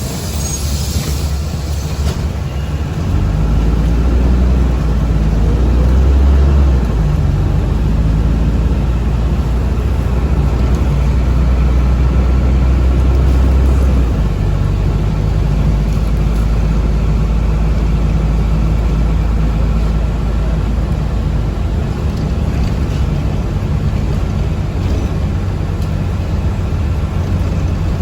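Cabin noise of a moving city bus: a steady low rumble that grows stronger about three seconds in and eases a little around fourteen seconds. A brief hiss sounds in the first two seconds.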